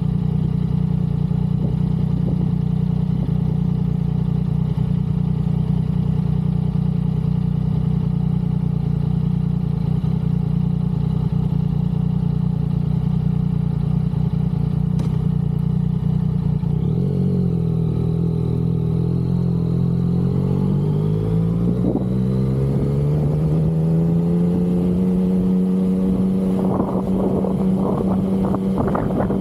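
Yamaha XSR900's inline three-cylinder engine running under way at a steady cruise; a little over halfway through the revs drop, then climb back gradually as the bike pulls away again. Short bursts of wind noise on the microphone near the end.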